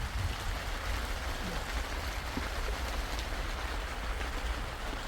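Steady wash of water noise, from rain or flowing floodwater, over a constant low rumble.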